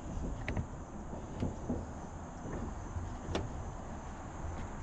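Light knocks and clicks of parts being handled and fitted during a bathroom exhaust fan install, with one sharp click a little past three seconds in, over a steady low hum.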